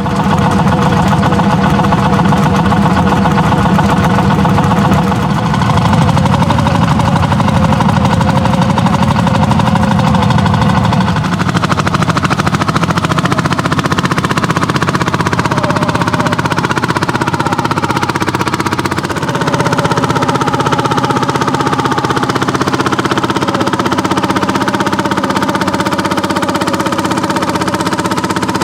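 Landini hot-bulb (testa calda) single-cylinder two-stroke tractor engines pulling in a ploughing run, with a heavy, knocking beat. The engine note shifts in pitch twice, about eleven and nineteen seconds in.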